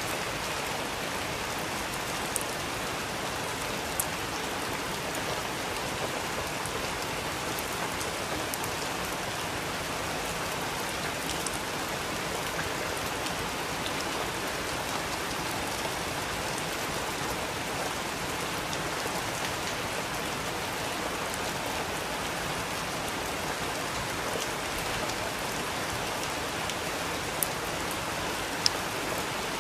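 Steady rain falling, an even hiss of drops on surfaces with a few sharper individual drips standing out, most near the end.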